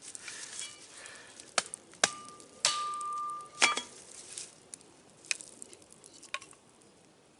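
A handful of sharp knocks and cracks spread over several seconds. A clear ringing tone starts with the second knock and holds for about a second and a half until the next knock cuts it off.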